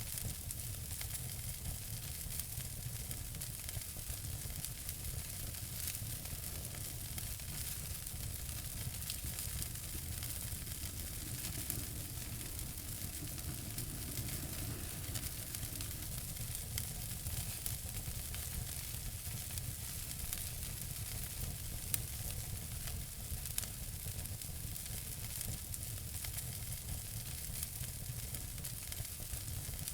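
Wood fire crackling in a fireplace: a steady hiss with frequent small pops and snaps, and one sharper pop about two-thirds of the way through.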